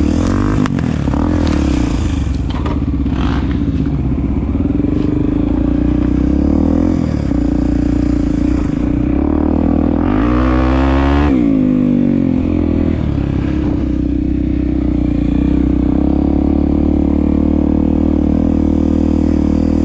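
Honda Tornado 250's single-cylinder four-stroke engine running while being ridden off-road, revving up about ten seconds in and settling back. A few clattering knocks sound in the first few seconds.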